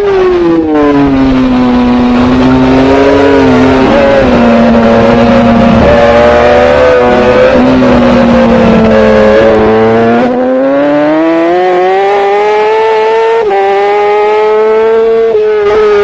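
Racing superbike engine at full race pace: the revs drop sharply as the bike slows for a corner, stay low through the turn for several seconds, then climb steadily as it accelerates out, with a brief step in pitch near the end.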